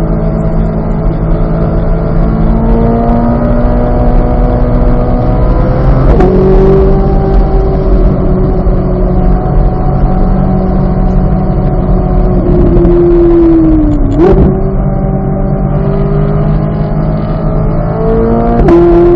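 2023 Corvette Z06's flat-plane-crank 5.5-litre V8 under load on track, its pitch climbing slowly through the gears with a sharp upshift about six seconds in and another near the end. Around two-thirds through, the engine note falls as the car slows, then jumps up on a downshift.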